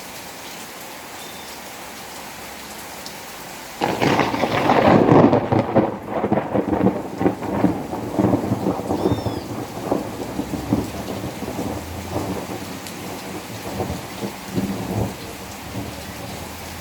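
Steady rain falling, then about four seconds in a sudden loud thunderclap that rumbles on with repeated cracks and slowly dies away over the next ten seconds or so.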